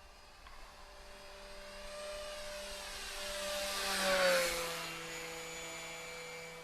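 Electric motor and propeller of an E-Flite RV-7 RC plane flying past: a whine that builds, peaks about four seconds in, drops in pitch as the plane goes by, then fades.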